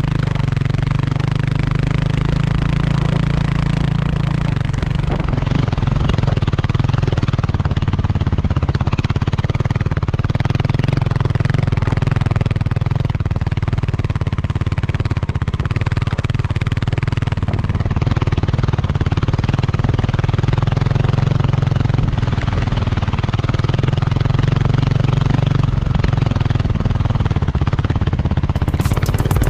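Dirt bike engine running at a steady, even pace while riding, with a constant rush of wind and trail noise over it.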